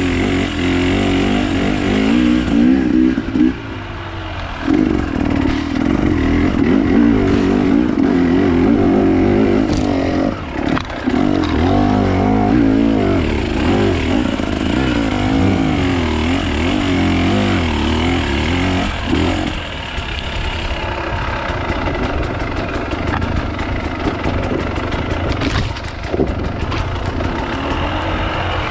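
Off-road enduro motorcycle engine being ridden. Its pitch rises and falls with the throttle, and it drops away briefly a few times when the throttle is closed.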